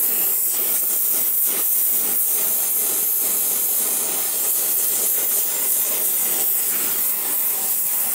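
Oxy-acetylene torch with a small tip hissing steadily as it heats a seized exhaust manifold stud, with irregular scraping, rubbing strokes over it.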